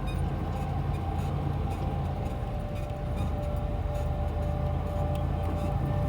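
Pickup truck driving slowly in low gear, its engine running with a steady low rumble and scattered light rattles and knocks.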